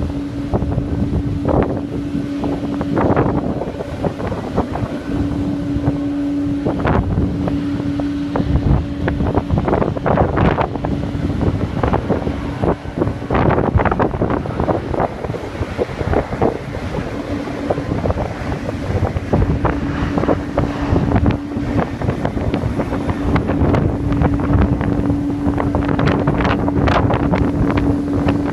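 Wind buffeting the microphone in irregular gusts over a steady engine hum.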